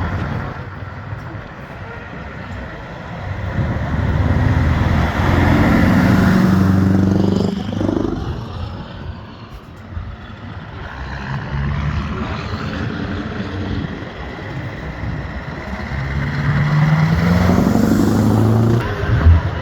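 Two old trucks drive past one after the other, each engine loud as it goes by. The second truck's engine climbs in pitch as it accelerates.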